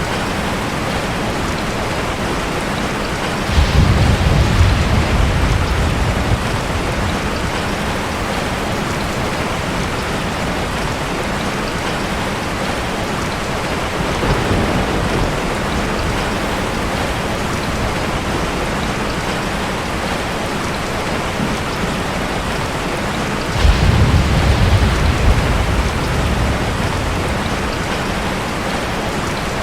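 Steady rain falling, with rolls of thunder rumbling in twice, about four seconds in and again near the end, and a fainter roll between them.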